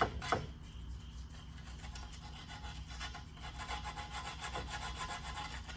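Sandpaper rubbed by hand along the edges of a metal pedal-tractor part, scuffing the mating surfaces smooth. It starts with a couple of quick scraping strokes, then settles into lighter, fainter rubbing.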